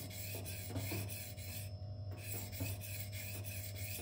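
Steel knife blade (M390) being stroked back and forth on a Shapton 1000-grit whetstone: a repeated soft rasping scrape, one stroke after another.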